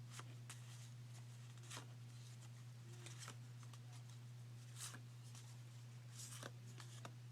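Football trading cards being handled and flipped one after another: a dozen or so faint, brief swishes and flicks of card stock over a steady low hum.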